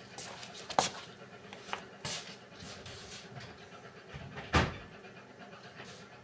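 Beko washing machine running a hand wash cycle: faint drum and water noise with four short knocks, the loudest about four and a half seconds in.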